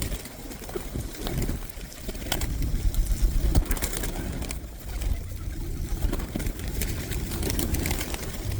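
Flock of pigeons crowding close, their wings flapping in repeated short flutters, with some cooing under a constant low rumble of wind on the microphone.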